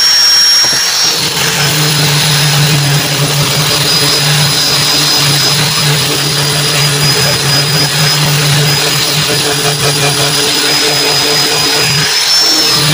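A motor running steadily and loudly, with a high whine over a low drone. The drone dips out briefly about a second in and again near the end, as the whine rises a little.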